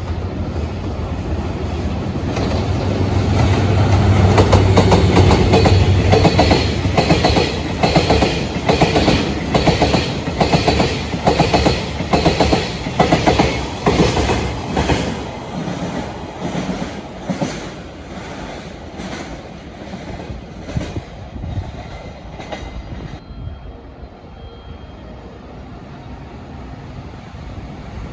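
Freight train passing close by. A heavy low drone builds and peaks a few seconds in, then the wheels clatter over rail joints at roughly two beats a second. The clatter fades as the last wagons go by.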